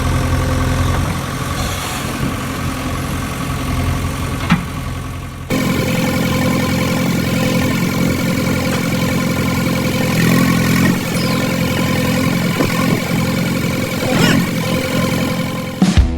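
Vehicle engine running steadily at idle, its sound changing abruptly to a different engine drone about five and a half seconds in.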